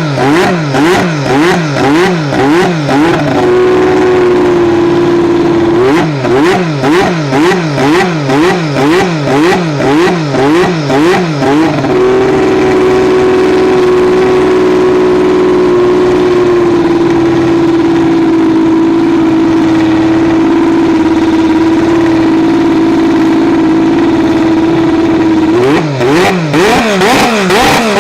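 McLaren MP4/4 Formula One car's Honda 1.5-litre turbocharged V6 being revved in quick, even blips about twice a second, then held at a steady high pitch for several seconds at a time. The blipping resumes near the end.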